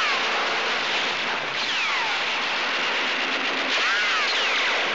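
Steam train running at speed with a dense, steady roar. Two falling whines cross it, about two seconds apart.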